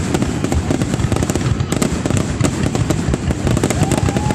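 Fireworks display going off in rapid succession: a dense, unbroken barrage of bangs and crackles.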